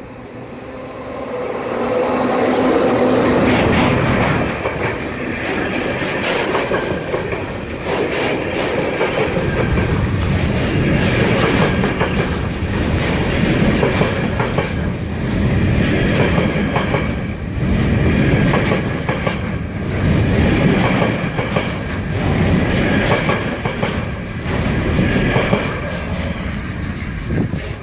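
Freight train of Transwaggon wagons passing close by, wheels clattering over the rail joints. The noise rises sharply about two seconds in, then swells and eases every couple of seconds as each wagon goes by.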